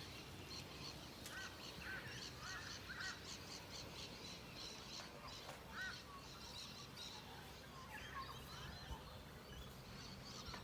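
Wild songbirds chirping and calling faintly, with a run of short arching calls in the first few seconds and another about six seconds in.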